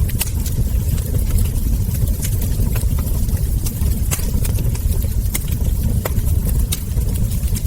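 Wood fire crackling, with many sharp irregular pops and snaps from the burning logs and embers over a steady low rumble.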